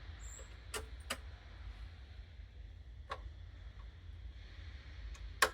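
Four sharp clicks, the loudest near the end, from a dumper's tripped circuit breaker being worked and reset, over a steady low rumble.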